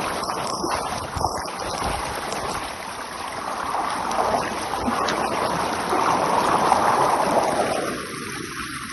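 Rushing, churning water in a natural pool, a steady loud roar of white water that eases a little near the end.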